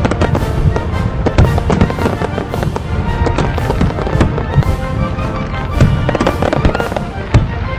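Fireworks bursting in a rapid, continuous series of bangs, several a second, with music playing underneath.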